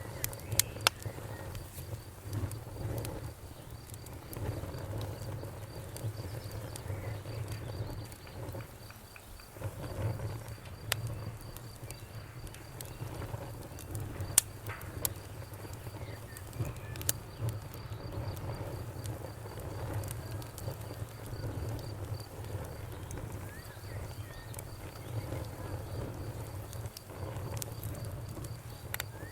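Campfire burning: a low steady rumble of flames with scattered sharp crackles and a few louder pops, about a second in and again near the middle. A faint high, evenly pulsed chirping runs underneath for most of the time.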